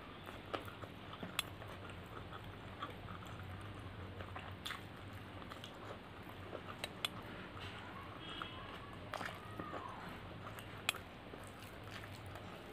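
Close-miked chewing and mouth sounds of someone eating egg fried rice by hand, with short sharp lip smacks scattered through, the loudest a little before the end.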